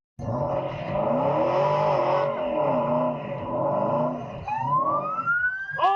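Car engine and road noise, the engine pitch swelling up and down, with a rising whine starting about four and a half seconds in.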